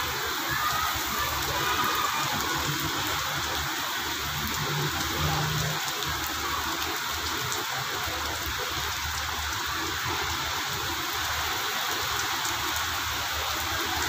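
Heavy rain falling steadily onto a flooded road and wet paving.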